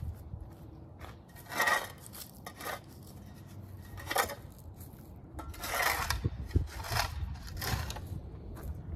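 Several separate scraping strokes, each about half a second and a second or more apart, like a shovel blade cutting into soil.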